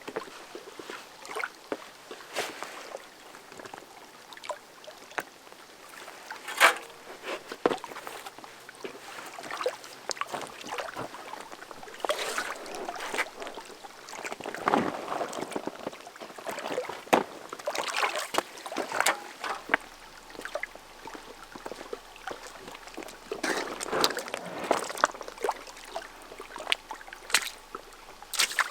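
Kayak being paddled: irregular splashes as the paddle blades dip into the water, with water trickling and gurgling between strokes.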